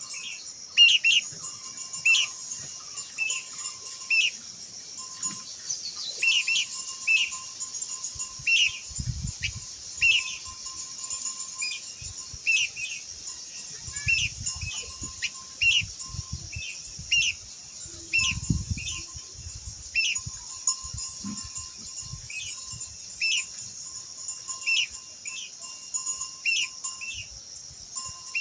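Blue-winged minla calling: short, sharp falling notes repeated about once or twice a second. A steady high hiss runs underneath, with a few low rumbles in the middle.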